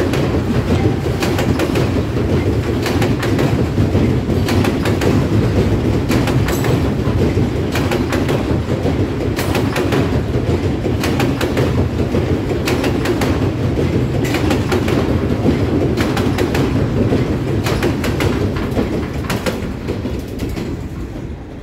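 Freight train of loaded ethanol tank cars rolling across a steel truss railroad bridge: a steady heavy rumble with wheels clicking over the rail joints, fading near the end as the last car passes.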